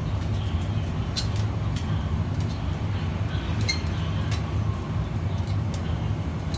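Steady low machine hum, with a scattered few light clicks and clinks over it.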